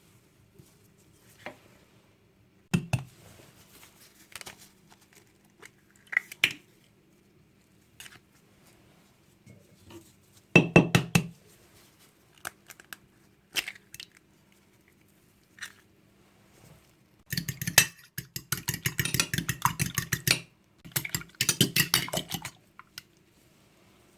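Kitchen preparation sounds: scattered clinks and knocks of dishes and utensils, with a louder knock about ten seconds in, then two runs of quick, rapidly repeated strokes of a utensil in a bowl in the last third.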